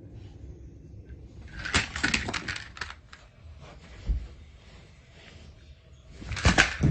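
Bursts of rapid clicking and clattering, one about a second and a half in and another near the end, with a single low thump in between.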